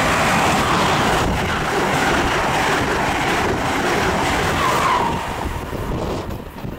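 Passenger train passing the platform at speed: a loud steady rush of wheels and air, with a brief falling squeal near five seconds in, then falling away over the last second or two.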